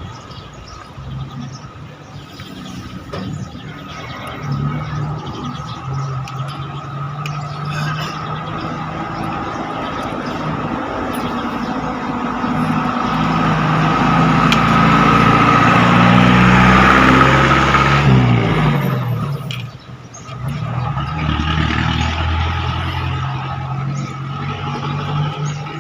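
Motor vehicles driving past on a road: one engine builds to its loudest about two-thirds of the way in, then drops in pitch and fades as it goes by, and a second vehicle passes a few seconds later.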